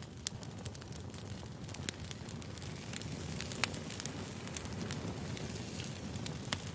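Wood fire crackling: irregular sharp pops and snaps, a few louder ones, over a steady low rumble of the burning logs.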